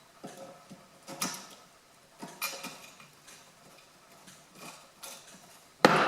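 Small metal parts of a wood heater's door clinking and tapping as it is screwed back together, a few light knocks spread through, then a loud ringing metallic clank near the end.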